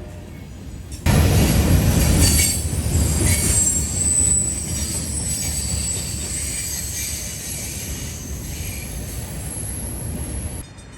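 CSX freight train rolling past close by, the rumble of steel wheels on rail with a high, thin wheel squeal above it. It starts abruptly about a second in and drops off sharply near the end.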